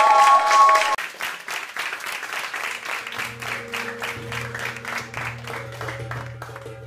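Applause, loud with a held high note over it for the first second, then thinner clapping goes on. About three seconds in, music begins under it with long, steady low notes.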